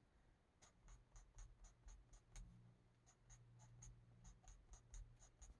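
Faint, quick strokes of a marker tip on a colouring-book page, about five short scratchy ticks a second, as the colour is filled in.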